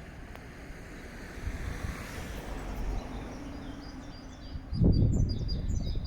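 Outdoor background rumble with wind gusting on the microphone, loudest about five seconds in. From about four and a half seconds, a bird sings quick, high chirping notes.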